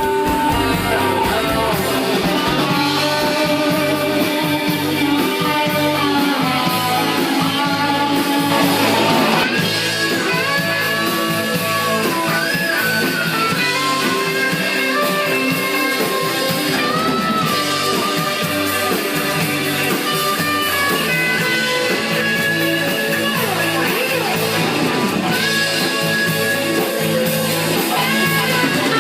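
A band playing an instrumental passage led by guitar, its sustained notes bending up and down in pitch.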